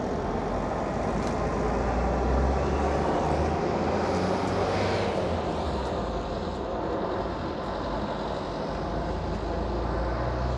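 Jet engine noise from Al Fursan's Aermacchi MB-339 trainers flying an aerobatic display, a steady rumble with one pass sweeping louder and brighter about halfway through.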